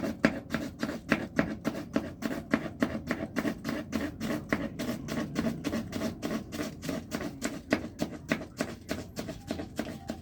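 Knife chopping rapidly on a cutting board, a steady run of about four to five even strokes a second.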